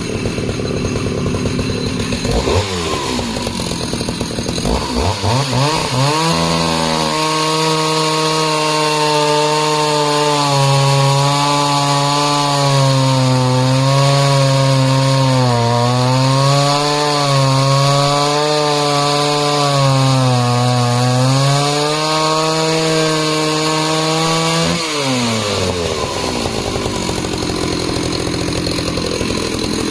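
Jonsered 820's 81cc two-stroke chainsaw engine cutting discs from a log at full throttle. Its pitch drops about two seconds in and climbs back, then holds steady with small repeated dips through a long cut, and changes again near the end.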